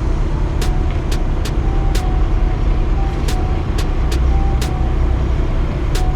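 Heavy truck on the road: a steady, loud low engine and road rumble, with sharp clicks every half second or so.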